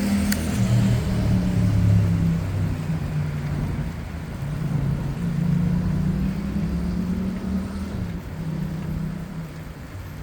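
Low, wavering rumble of city motor traffic and road noise heard from a moving bicycle, with a single sharp click shortly after the start.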